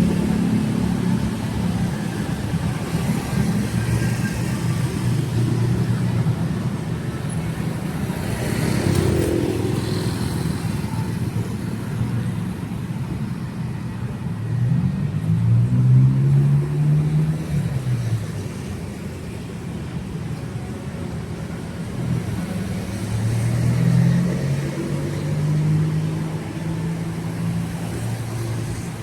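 Road traffic passing on a city street: car and motorbike engines run steadily, their pitch rising as vehicles pull away. The loudest pass comes about halfway through, another near the end.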